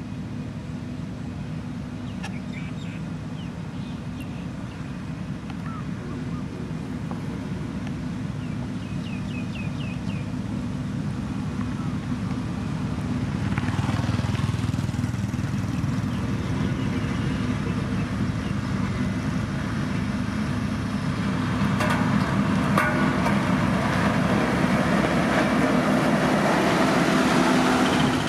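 Diesel engine of heavy road-construction machinery running steadily, growing louder as it comes closer, with a rougher grinding noise added in the second half. A few short high chirps sound in the first third.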